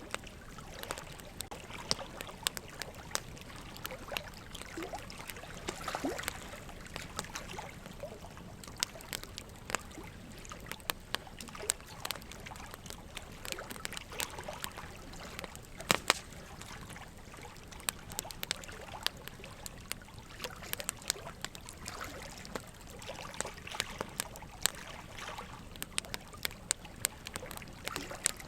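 Wood fire crackling steadily, with frequent irregular snaps and pops over a soft hiss. One sharp, loud pop comes a little past halfway.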